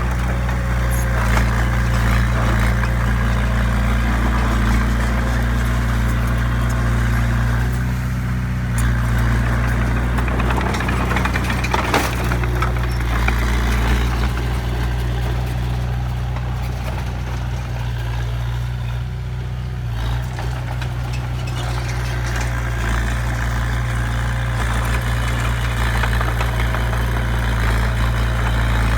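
Heavy diesel engine of construction machinery running steadily at a low, even speed, with a single sharp knock about twelve seconds in.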